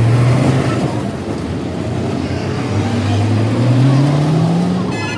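A vehicle engine running, its pitch climbing steadily over a few seconds as it speeds up, then falling away near the end.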